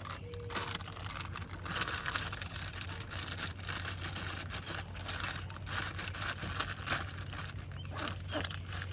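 Crinkling, rustling handling noise close by, with many small clicks and knocks, busiest from about two to three seconds in, over a steady low hum.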